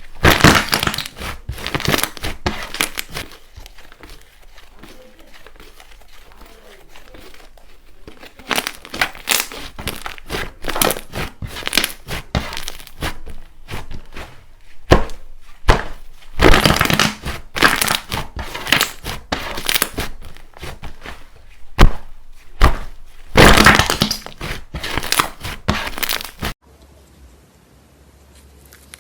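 Slime being squeezed and pressed by hand close to the microphone, giving dense clusters of crisp crackles and pops, sparser for a few seconds after the start, then cutting off suddenly near the end.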